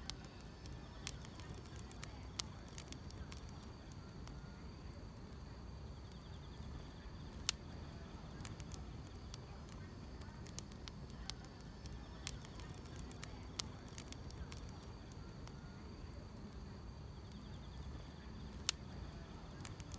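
Wood fire crackling, with irregular sharp pops, two of them louder, about a third of the way in and near the end, over a low steady rumble. Faint chirring of grass insects runs underneath.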